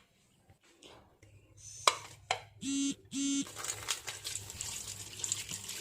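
Two short electronic beeps over a low steady hum, then running water starting about halfway through as onions are washed under it.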